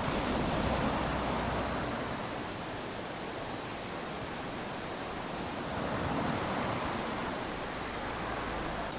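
Small waves lapping onto a sandy beach, a steady wash that swells twice, once at the start and again about six seconds in, as each wave runs up the sand.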